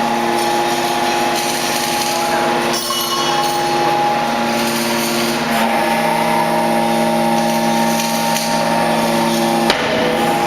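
Bead wire baler running: a steady machine hum with several whining tones over a noisy background. The tones shift in pitch about halfway through. Near the end a sharp click comes, and most of the whine drops away.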